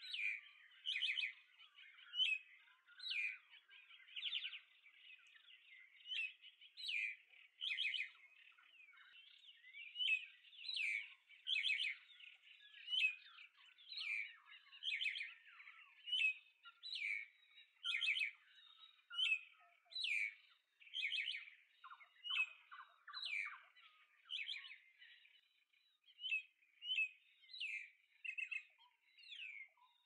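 Small birds chirping: loud short chirps come about once or twice a second over softer, continuous twittering.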